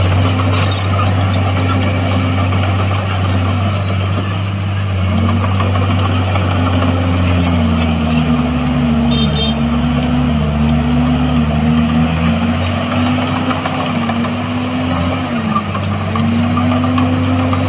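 Diesel engine of heavy earthmoving machinery running steadily under load. Its pitch wavers and dips several times midway, over a broad clattering noise.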